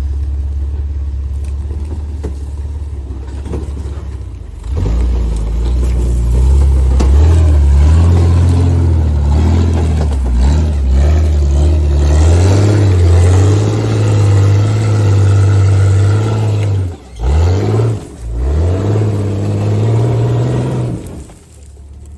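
Off-road rock-crawling rig's engine idling, then revving hard under load for about sixteen seconds as it climbs, with two brief drops in revs near the end, before settling back to idle.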